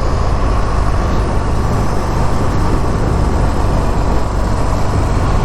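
Buell XB12S's air-cooled V-twin engine running steadily under way, a dense low rumble with no revving up or down.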